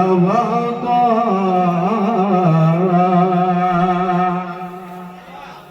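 Solo male nasheed singer holding one long, ornamented note on the word "watan", the pitch wavering in melismatic turns before the voice fades away near the end.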